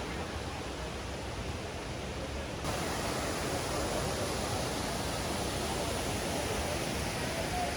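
Steady rushing of a waterfall, which gets suddenly louder about a third of the way in.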